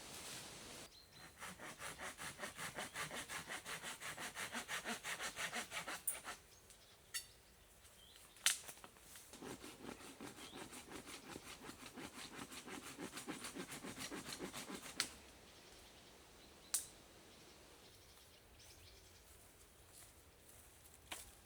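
Hand saw cutting through wood in quick, even back-and-forth strokes, two runs of sawing with a pause between, the second run deeper in tone. A few sharp knocks fall in the pause and near the end.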